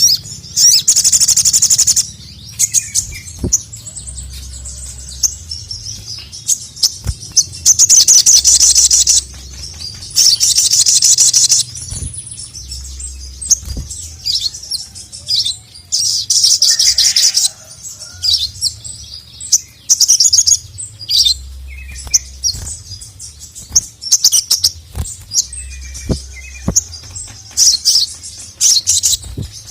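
Male ruby-cheeked sunbird (sogon) singing vigorously: repeated bursts of rapid, high-pitched trills a second or two long, with short sharp chirps between them.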